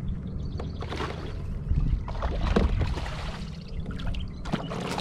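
Strong wind buffeting the microphone in a low rumble, with water splashing and trickling around a kayak.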